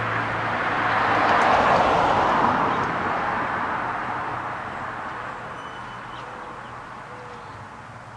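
A car passing by, its road noise swelling about a second and a half in and then fading steadily away. A few faint bird chirps come through near the end.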